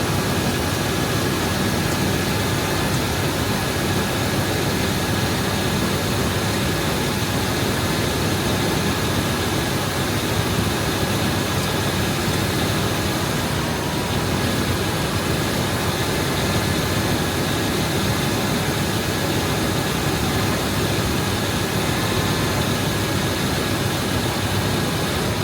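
GM 8.1L (496) big-block V8 idling steadily, cold, shortly after start-up. A faint steady high tone rides over the engine.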